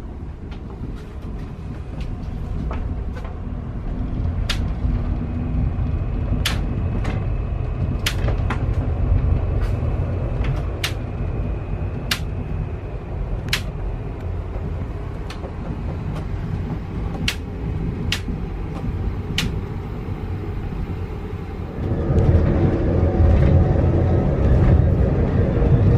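Steady low rumble of a moving railway carriage heard from inside the suite, with sharp clicks every second or so. It grows louder about four seconds in and again near the end.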